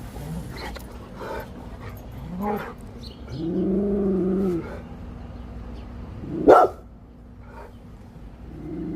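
A dog barking and calling: a few short yips, a drawn-out pitched call about three and a half seconds in, and one sharp, loud bark about six and a half seconds in, with another long call starting near the end.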